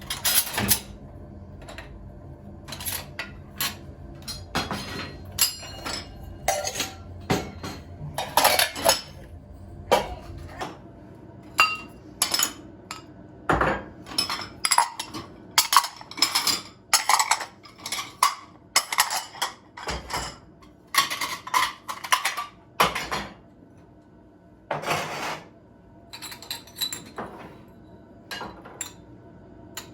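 Dishes and cutlery clinking and clattering as they are handled and set down, in many separate irregular knocks.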